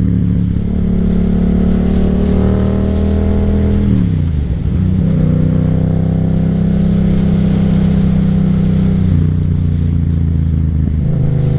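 Yamaha FZ-07's parallel-twin engine running on the road. The pitch holds steady, drops sharply about four seconds in, then holds steady again with a small step down near nine seconds.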